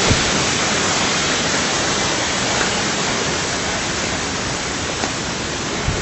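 Running water rushing steadily with an even, unbroken noise, with a couple of faint knocks.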